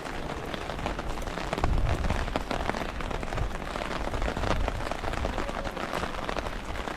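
Rain falling, with many quick drop ticks over a steady low rumble that swells briefly about two seconds in.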